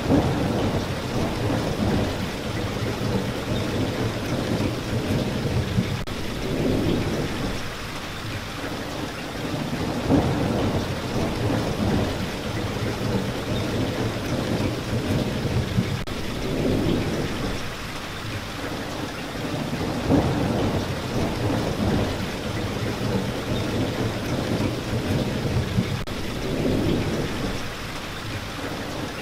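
Steady rain falling, with low rumbles of thunder rising and fading every few seconds.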